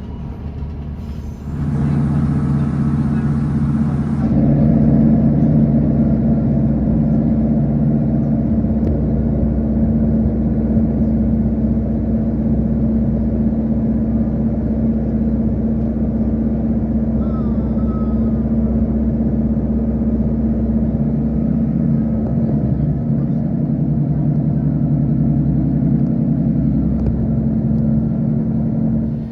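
Class 156 diesel multiple unit's underfloor Cummins diesel engine running under power: a steady, loud drone that steps up in level about a second and a half in and again a few seconds later, as the train pulls harder.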